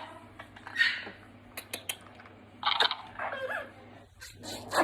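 Yellow-crowned Amazon parrot making a few short, rough calls and a brief warbling chatter, with several sharp clicks in between.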